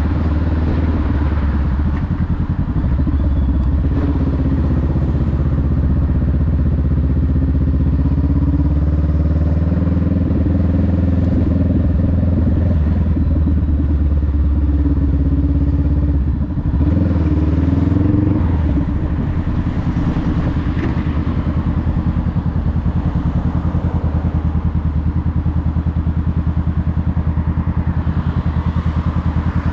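Honda Rebel 500's parallel-twin engine running steadily under way. A little past halfway the engine note dips briefly, then picks up again and settles to a steady, slightly lower note.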